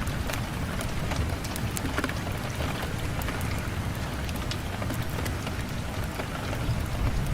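Steady rain on a window, many small drop ticks over a low rumble.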